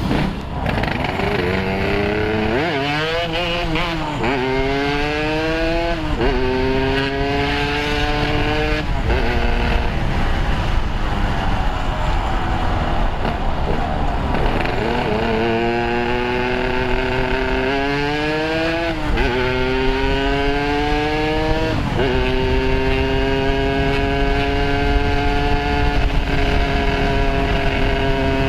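Yamaha RX-King's two-stroke single-cylinder engine with a Boban C33 expansion-chamber exhaust, accelerating up through the gears: the engine note rises, drops at each shift and rises again. It does this in two runs, easing off between them, then holds a fairly steady note near the end.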